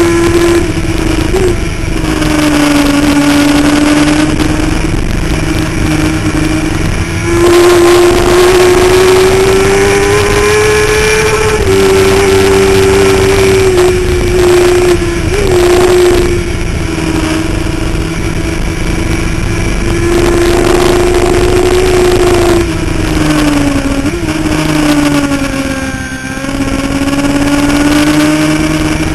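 Kawasaki ZX-10 sportbike's inline-four engine at sustained high revs from onboard, its pitch climbing and falling with the throttle, with brief dips at gear changes, under steady wind rush.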